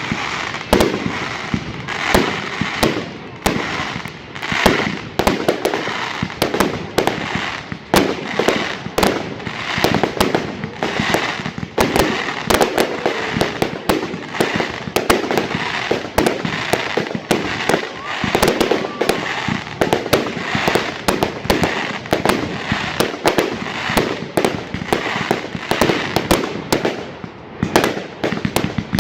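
Fireworks going off in a dense run of sharp bangs and crackles, several a second, without a break.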